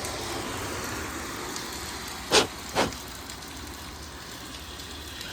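Steady hiss of rain, with two short sharp clicks a little past the middle, about half a second apart.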